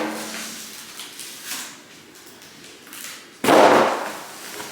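Handling noise from a toaster oven's cardboard box and packaging, with one sudden, loud, short burst of noise about three and a half seconds in.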